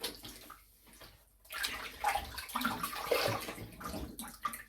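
Water splashing in a sink as a double-edge safety razor is rinsed, starting about a second and a half in, irregular and splashy.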